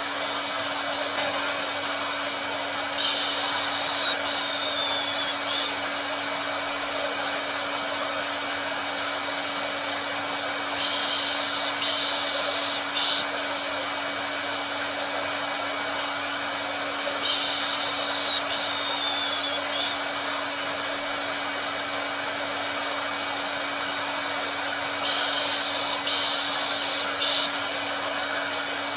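Hair dryer blowing steadily: an even rushing hiss over a constant low motor hum, used as white noise to soothe a baby. A brighter, higher hiss swells for a second or two about every seven seconds.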